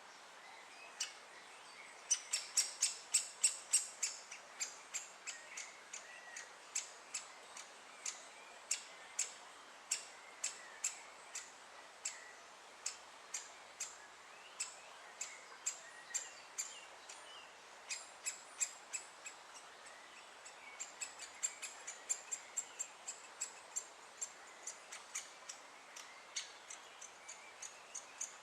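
Great spotted woodpecker calling: a long run of short, sharp high 'kik' notes, about two to three a second, coming faster and louder near the start and again about three-quarters of the way through.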